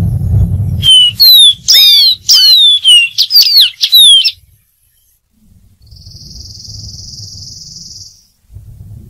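Dark-throated seedeater singing a fast phrase of loud, clear whistled notes, most sliding downward, for about three seconds. A low rumble comes before the song, and a steady hiss follows it for about two seconds.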